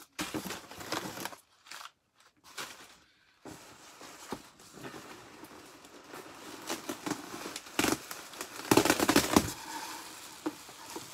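Newspaper packing crumpling and rustling as it is pulled out of a box. It comes in irregular bouts, with a quiet spell near the start and the loudest bout about nine seconds in.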